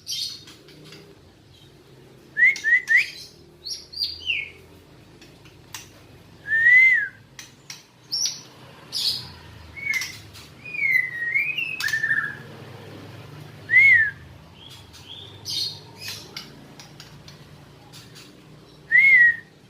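White-rumped shama (Bahorok type) singing in short, separate whistled notes and chirps with pauses between them. This is the hesitant early song of a wild-caught bird that is just beginning to sing after six months in care.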